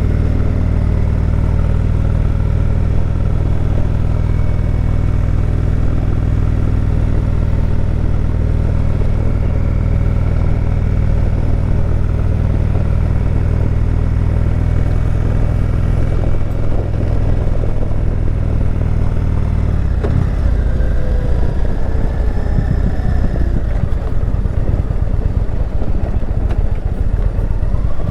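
Indian Chieftain Dark Horse motorcycle's V-twin engine running steadily under way. About 20 seconds in, the note drops and the sound turns rougher, then the pitch climbs again near the end.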